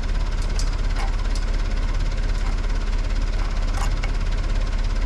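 Backhoe engine idling steadily, a low even rumble with a fast pulse, with a few faint clicks over it.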